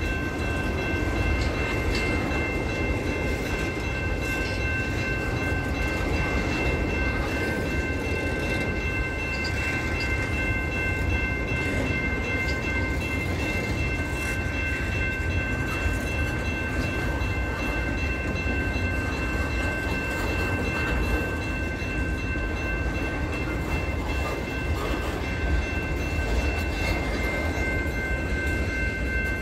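Double-stack intermodal freight train rolling past: a steady rumble from its wheels and cars, with a high ringing of several steady tones held throughout.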